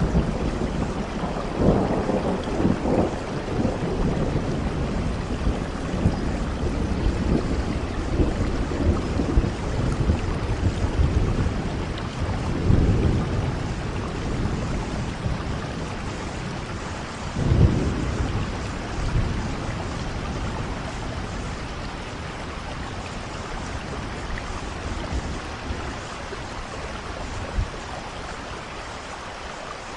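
Steady rain with low rolling thunder, the rumbles swelling about two seconds in, again around halfway, and loudest a little after that, then the storm easing toward the end.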